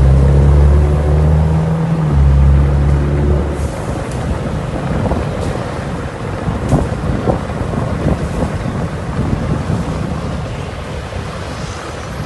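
Ford Mustang V8 running hard under load, with a brief break in the note about two seconds in, like a gear shift. About three and a half seconds in the engine note falls away, leaving a rushing wind-and-road rumble with scattered sharp pops and cracks.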